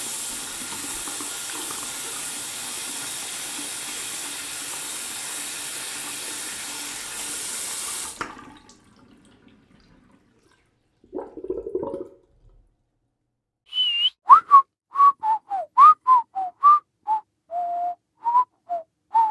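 A steady hiss like running water that cuts off about eight seconds in, then a brief noise, then a person whistling a quick string of about fifteen short notes, mostly near one pitch with small rises and dips, the first one higher.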